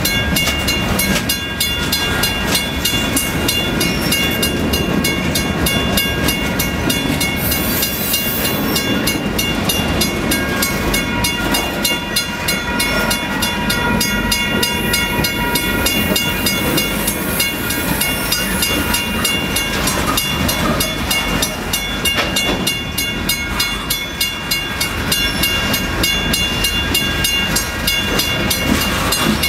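Freight train cars rolling past at close range: a steady rumble of steel wheels on the rails with rapid, regular clicking and a steady high whine over it.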